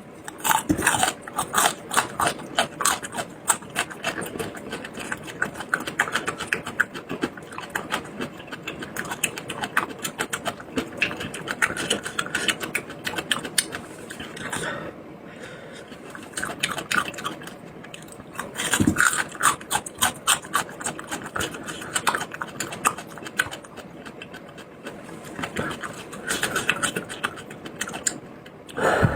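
Close-miked mukbang eating: a person chewing food, with rapid wet clicks and smacks coming in bursts and short lulls between them.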